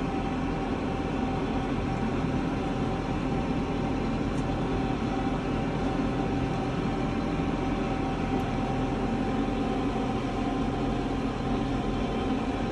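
A big farm tractor's diesel engine running steadily under way, heard from inside the cab, with a steady whine over the engine noise.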